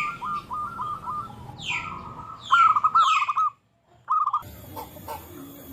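Zebra doves (perkutut) cooing in runs of short, quick notes at a steady pitch, answering one another, with higher downward-sweeping chirps from another bird over them. The sound cuts out for about a second midway.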